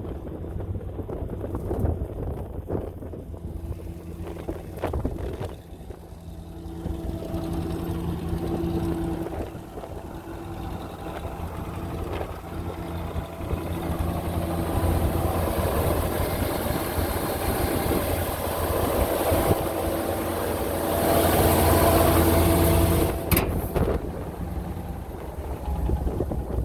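C50 grain truck's engine running steadily, with wind noise on the microphone. It grows louder for a couple of seconds near the end.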